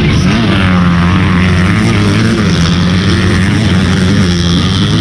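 Motocross dirt bike engines running loudly and steadily, their pitch wavering a little as the throttle moves.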